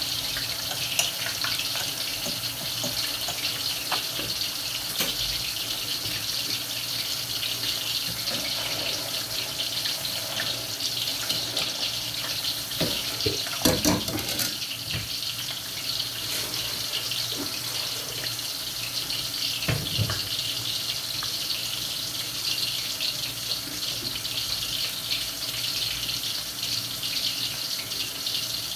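Water running steadily from a kitchen tap into a sink, with a few clunks of objects being handled in the sink, the loudest about halfway through and another about two-thirds of the way in.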